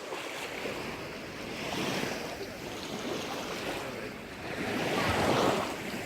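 Sea waves washing onto the shore, swelling twice, the second swell louder, near the end.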